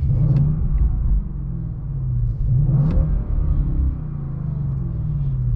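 Audi RS6 C8's twin-turbo 4.0-litre V8 free-revving through an Akrapovic exhaust. A rev right at the start falls away, a second rev climbs to a peak about three seconds in, and the engine then settles back down.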